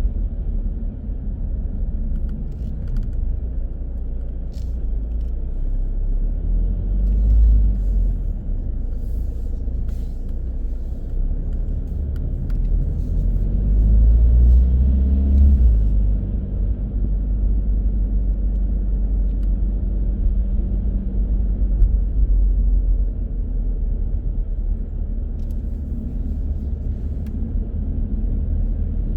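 A moving car's steady low road and engine rumble. It swells twice, about 7 and 15 seconds in, as the engine note rises under acceleration.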